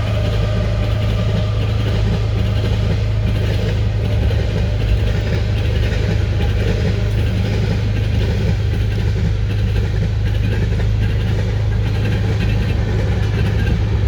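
Car engine idling steadily with a constant low hum.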